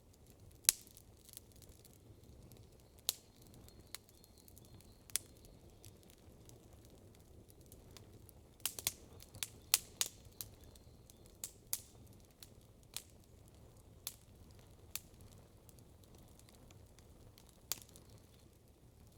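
Campfire crackling: burning wood gives sharp, irregular pops, with a quick run of them about halfway through, over a faint steady background.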